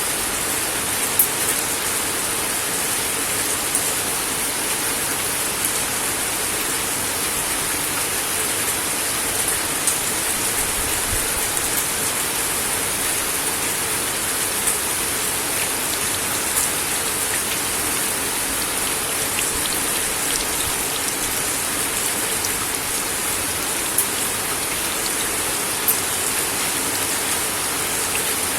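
Steady rain falling on a wooden deck, a constant even hiss with single drops ticking out above it here and there.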